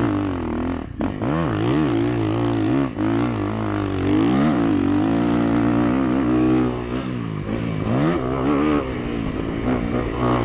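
Dirt bike engine being ridden hard, revving up and dropping back again and again, its pitch climbing and falling every second or so.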